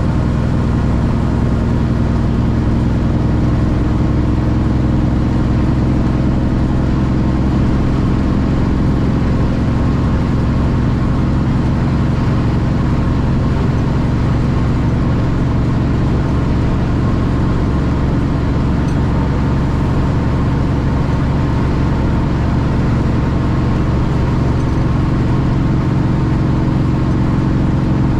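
Straight-piped Cummins ISX inline-six diesel in a Kenworth T800 truck running at a steady speed, a loud, even low exhaust note with no rise or fall.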